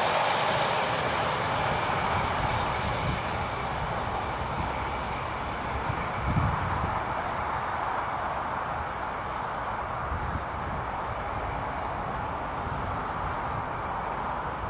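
A train running past on the main line and slowly fading as it moves away, a steady rumble of wheels on rail, with faint short high chirps above it.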